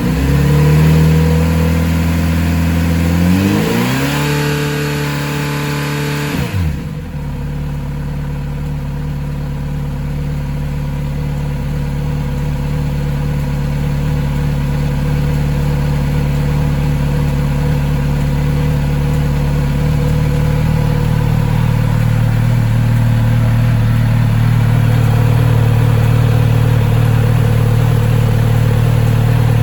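Kawasaki Z900RS inline-four engine running at a raised idle after a start following months of storage. Its revs climb about three seconds in, drop sharply a few seconds later, then hold a steady lower idle as the engine settles.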